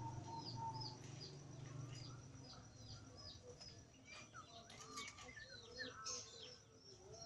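Opior jambul (crested white-eye) calling: a quick run of faint, short, high chirps, each dropping in pitch, that gets busier in the second half.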